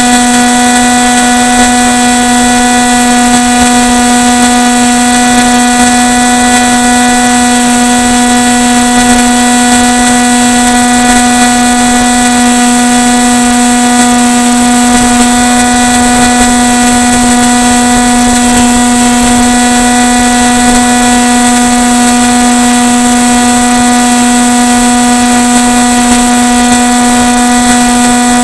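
Model airplane's electric motor and propeller running at a steady cruise throttle: a constant loud drone that holds one pitch the whole time, with a hiss of air and prop wash underneath.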